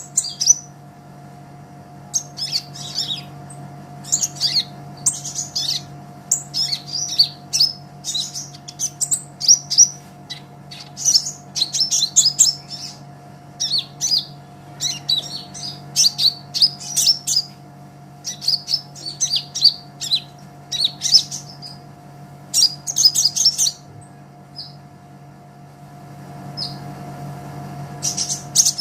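Kolibri ninja sunbird singing in quick bursts of high, thin chirps and trills, with a pause of about two seconds near the end. A faint steady hum sits underneath.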